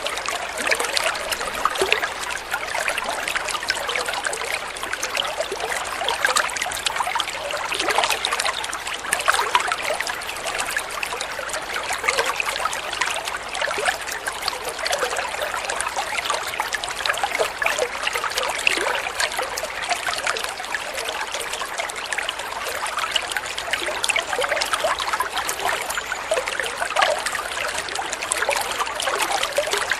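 Water flowing and trickling steadily, a continuous babble of small splashes.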